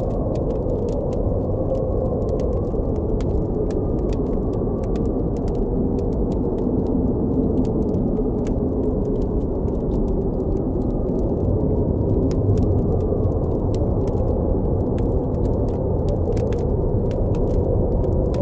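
Steady, low blizzard wind with no let-up, over the frequent, irregular snaps and pops of a crackling campfire.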